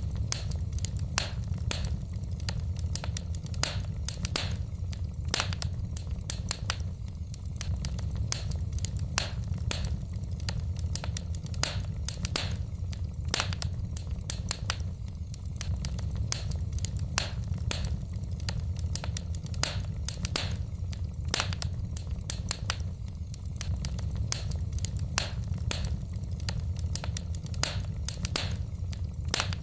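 Wood fire in a fireplace burning steadily: a low rumble of flames with frequent sharp crackles and pops from the burning logs at irregular intervals.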